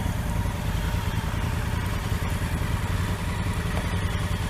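Motorcycle engine running steadily, with no change in speed.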